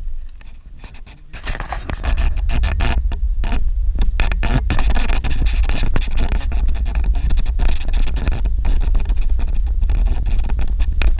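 Suzuki Jimny driving over a rough dirt road: a heavy low rumble with constant knocks and rattles from the bumps. It begins with a thump and builds up over the first couple of seconds.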